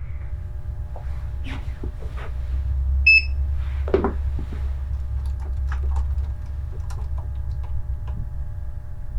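Steady low rumble with a faint hum, a single short electronic beep about three seconds in, and scattered light clicks and knocks.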